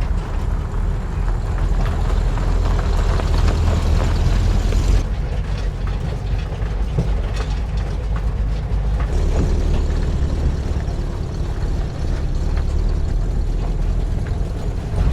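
1950s VW split-window bus driving slowly over a rocky, washed-out dry wash: low engine rumble with steady rattling and knocking of the body and tyres on rock. The sound shifts about five seconds in and again about nine seconds in.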